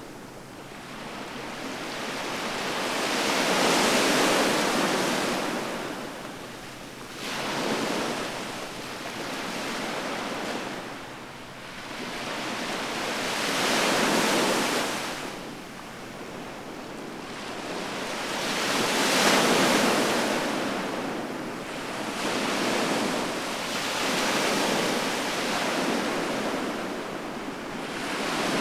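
Sea waves washing onto the shore, the surf swelling and fading every few seconds in a steady rhythm of breakers.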